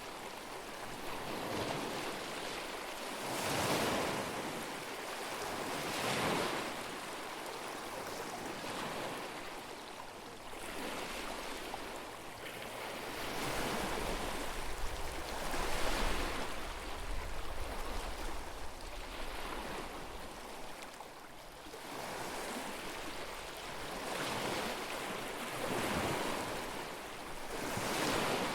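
Small lake waves washing onto the shore, one swell every two to three seconds. Wind rumbles on the microphone for a few seconds about halfway through.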